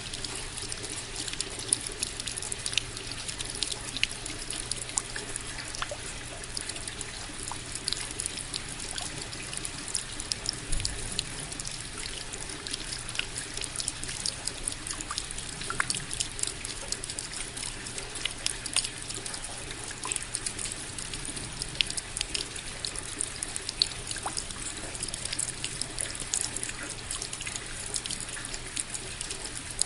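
Steady rain with many individual drops landing close by, sharp drip taps scattered over an even hiss.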